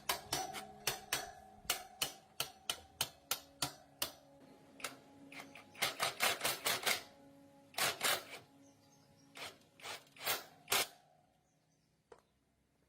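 A series of sharp clicks or taps, about two or three a second at first, then a quicker cluster and a few scattered ones, over faint steady tones that fade out near the end.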